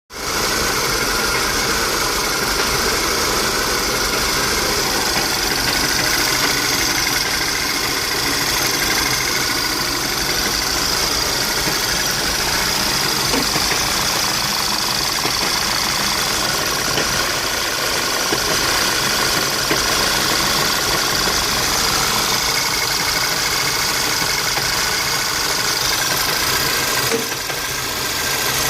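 Volkswagen CC's turbocharged four-cylinder engine with an HPA K04 turbo upgrade, idling roughly and shaking. The check-engine light flashes at this idle, and the owner suspects a vacuum leak or an exhaust leak.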